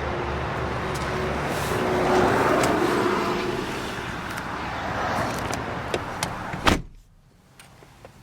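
Steady background noise with a low hum, then a car door shutting with one sharp thud near the end, after which the outside noise is cut off and it goes much quieter.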